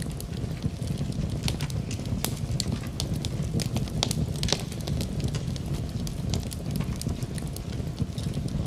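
Fire burning in a fireplace: a steady low rumble with many irregular sharp crackles and pops.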